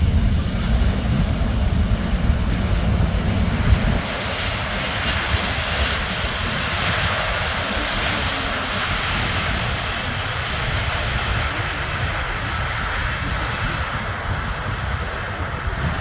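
Boeing 777 airliner's jet engines passing overhead on landing, a broad rushing noise that swells through the middle and slowly eases. A heavy low rumble cuts off suddenly about four seconds in.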